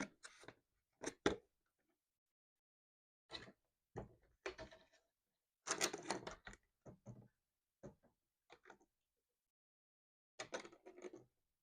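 Handling noises from unpacking a model locomotive from its box and packaging: a dozen or so short, scattered knocks, clicks and rustles.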